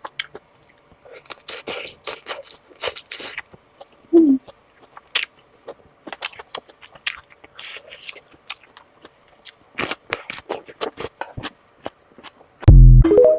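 Close-miked mouth sounds of someone eating sausages: wet smacking and chewing clicks in irregular runs. About four seconds in there is a brief loud sound falling in pitch, and near the end a loud low thump.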